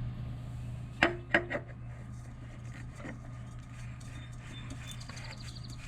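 Three sharp metallic clanks about a second in, over a steady low hum, with a faint fast ticking near the end.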